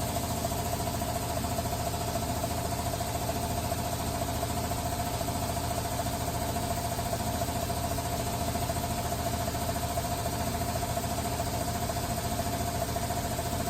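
CA3 series 15-horsepower electrically driven industrial air compressor running steadily with heavy-duty intake silencers fitted: a steady mid-pitched hum over a fast low throb from the pump.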